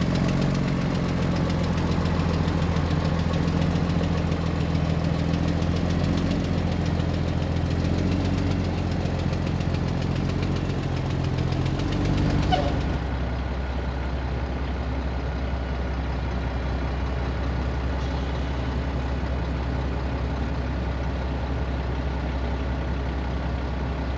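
Engine idling steadily. About halfway through it settles lower and a little quieter.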